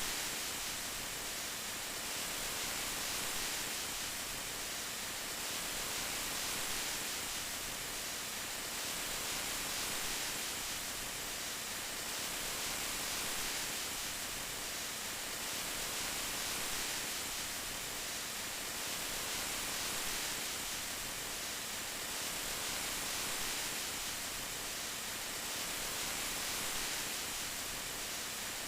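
Steady rain: an even hiss of falling rain that swells and eases gently about every three seconds.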